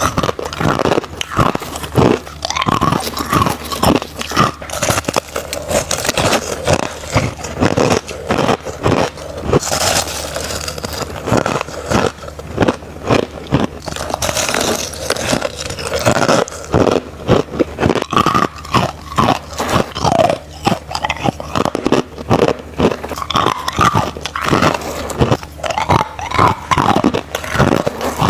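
A person biting and chewing crushed ice close to the microphone: loud, rapid, irregular crunches.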